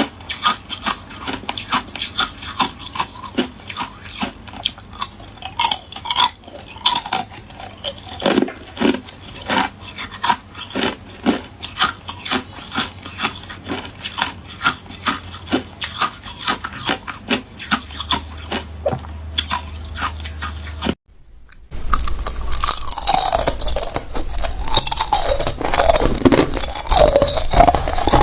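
Hard ice cubes being bitten and chewed close to the microphone: a steady run of sharp crunches, about two a second. After a brief break about three-quarters of the way through, the crunching comes back louder and denser.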